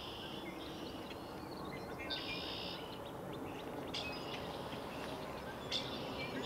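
Small songbirds chirping over and over, with one longer trilled phrase about two seconds in, over a faint steady low rumble from the freight train moving away.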